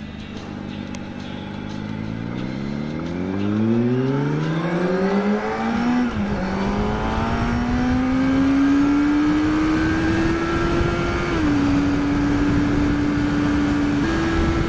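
Inline-four sport motorcycle engine pulling away from idle: its pitch climbs steeply through the revs, dips briefly about six seconds in, then holds a steady cruise with a drop about eleven seconds in and a step up near the end. Wind noise grows as it picks up speed.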